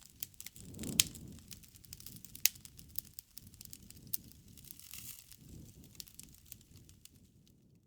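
Wood fire crackling: irregular sharp pops and snaps over the soft low rush of the flames, with a louder pop about a second in and another about two and a half seconds in.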